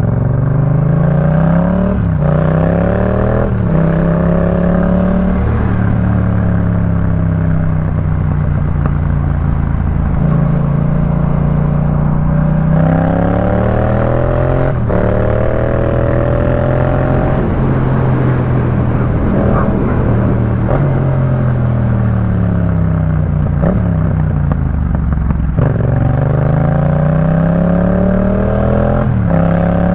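2018 Yamaha MT-07's parallel-twin engine breathing through a Jeskap K4 full aftermarket exhaust while being ridden. Engine pitch climbs in short runs broken by quick upshifts, then falls away as the bike slows, and this happens several times over.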